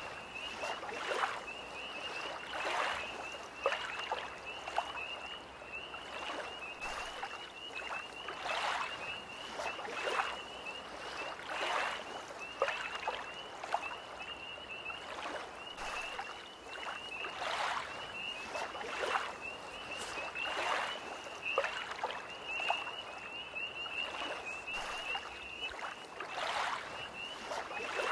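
Small lake waves lapping every second or two, under a continuous high-pitched trilling chorus of tree frogs.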